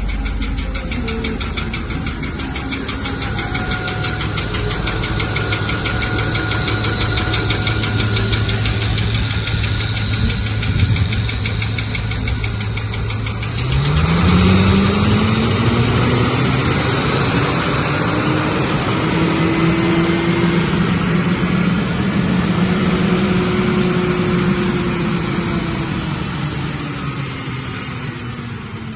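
2011 GM 6.0-litre gasoline V8 engine idling steadily. About halfway through it is revved: the engine speed climbs over several seconds, holds raised, then slowly eases back down near the end.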